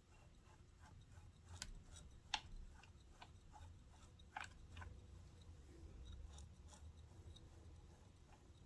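Sears Kenmore 148.12210 sewing machine running faintly on zigzag stitch after a cam gear repair: a low steady motor hum with scattered light ticks and clicks from the mechanism.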